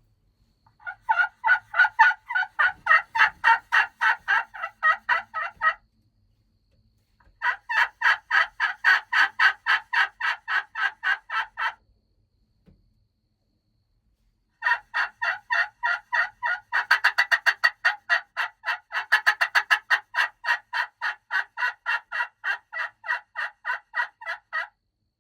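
Turkey yelping in three long runs of rapid, evenly spaced notes, each several seconds long. The last run is the longest and quickens into faster notes partway through.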